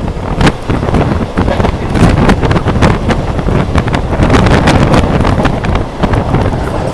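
Oncoming Mumbai suburban EMU local train rushing past close alongside, heard from the open doorway of another moving local: a loud rumble with rapid clattering throughout, loudest in the middle as the train goes by, and wind buffeting the microphone.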